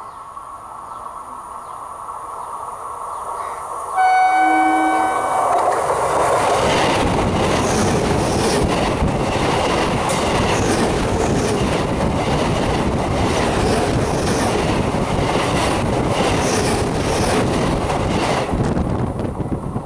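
Electric suburban local train (EMU) approaching with a building rumble, then sounding its horn briefly about four seconds in. It then runs directly over the microphone between the rails: a loud undercarriage rumble with wheels clattering in regular clacks.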